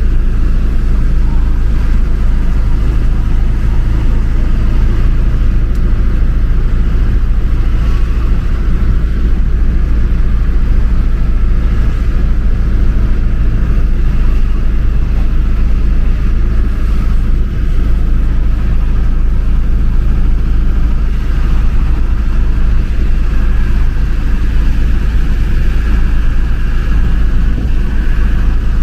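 Steady road and engine drone of a moving vehicle, heard from inside the cabin, with a heavy low rumble that holds even throughout.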